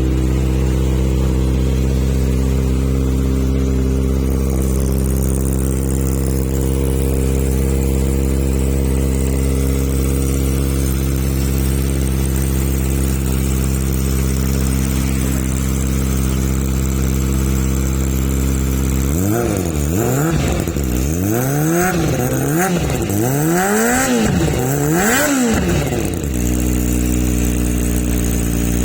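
Kawasaki ZX-25R's 250 cc inline-four idling steadily through an aftermarket full-system stainless exhaust. About two-thirds of the way in it is blipped about five times in quick succession, the pitch rising and falling with each blip, then it settles back to idle.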